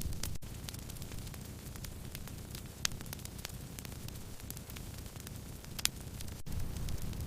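Wood fire burning and crackling: scattered small snaps over a low steady rumble, with two louder pops about three and six seconds in.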